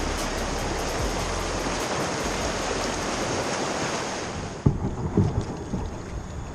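Shallow river rapids rushing steadily. About four and a half seconds in the rushing drops away and a run of knocks and thumps begins, as a kayak is dragged and bumped over the rocks.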